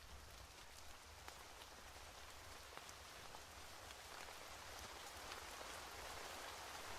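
Faint steady rain with scattered light ticks of drops, slowly growing louder.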